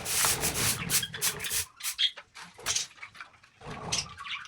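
Hand work with cement: a run of rough scrapes and taps, heaviest in the first second and a half, then separate short knocks. A couple of brief budgie chirps come through.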